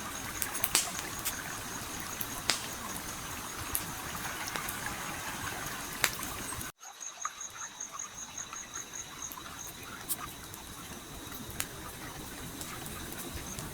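Campfire crackling with occasional sharp pops over the steady rush of a flowing stream. A little past halfway the sound cuts out for an instant, then resumes.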